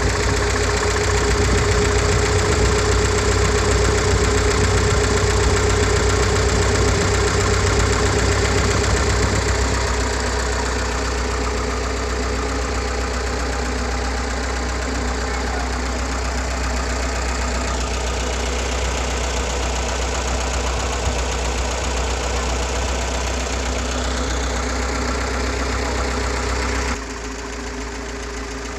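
Freshly overhauled UMZ-421 four-cylinder petrol engine of a GAZ-69 idling steadily. The sound eases slightly about ten seconds in and drops suddenly to a quieter level near the end.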